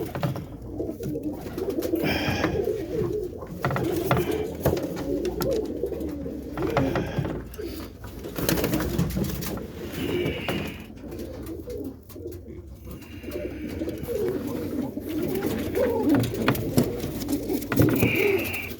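Many domestic roller pigeons cooing at once in a loft, a dense, continuous overlapping murmur of low coos, with a few brief higher chirps mixed in.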